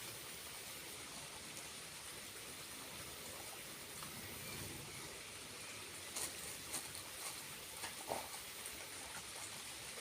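Steady rushing and splashing of water from a small waterfall, with a few short clicks and knocks in the second half.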